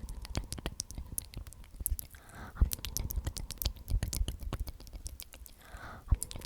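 Close-miked ASMR whispering of the trigger word "omnomnom", twice, over a steady run of wet mouth clicks and smacks.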